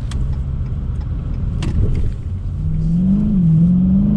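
Supercharged 6.2-litre Hemi V8 of a Dodge Hellcat running as the car is driven, then accelerating about two and a half seconds in, its pitch rising, dipping briefly, then rising again.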